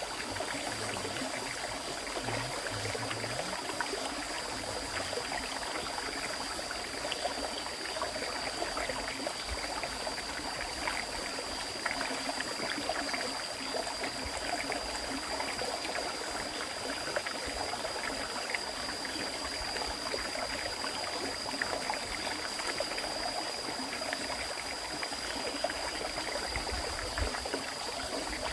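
River stream flowing steadily: a continuous rush of water dotted with many small splashes and trickles. Under it runs a thin, steady high-pitched whine.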